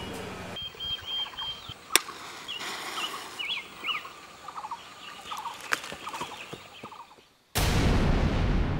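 Birds chirping and calling in short, repeated phrases over quiet outdoor ambience, with one sharp click about two seconds in. Near the end a loud, steady rushing noise cuts in suddenly.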